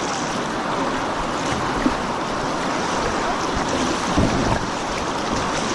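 Rushing water of a shallow stream rapid around a kayak, a steady wash with wind noise on the microphone. A single brief knock about two seconds in.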